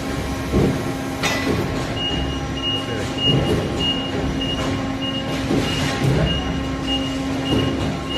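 Forklift running with a steady hum and irregular clatter. From about two seconds in, its warning beeper sounds about twice a second.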